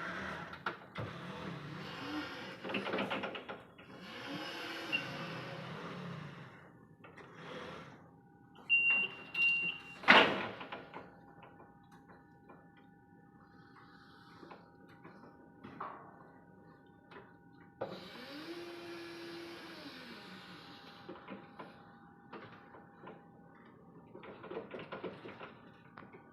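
Electric reach truck at work: its motor whirs up, holds and winds down several times with a hiss. A short beep comes about nine seconds in, then a sharp clank, with a faint steady whine between the motor runs.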